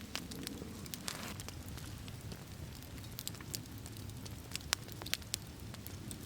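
Small wood fire crackling, with scattered sharp pops and snaps over a faint low background.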